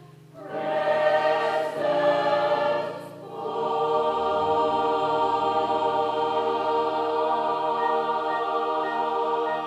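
Gospel choir singing: a short phrase, then a long held chord from about three and a half seconds in.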